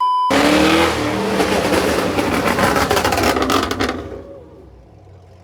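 A short beep, then a loud car engine revving hard, its pitch rising. It fades away after about four seconds.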